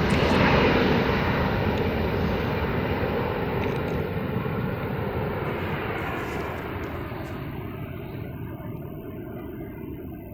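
Airbus A350-900's twin Rolls-Royce Trent XWB jet engines at takeoff power, the noise fading steadily as the aircraft moves away, the high hiss dying out first and leaving a low rumble.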